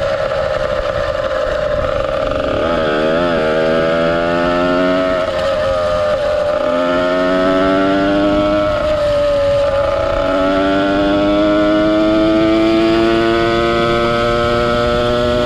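Ported 100cc two-stroke motorized-bicycle engine with an expansion pipe, running under way. The revs rise and fall a few times, then climb steadily through the second half.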